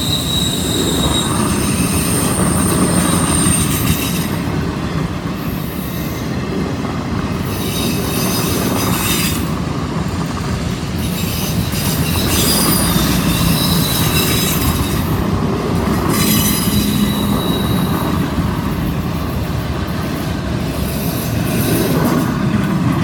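Loaded auto rack freight cars rolling past on a curve. The steel wheels rumble steadily on the rail, with high-pitched wheel flange squeal coming and going.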